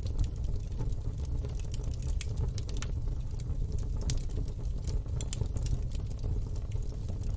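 Wood fire in a fire pit crackling, with irregular sharp pops scattered throughout over a steady low rumble.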